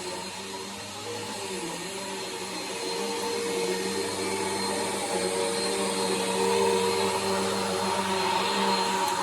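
Bissell PowerForce vacuum cleaner running steadily. Its motor hum dips briefly about a second and a half in, and the sound grows louder from about three seconds on.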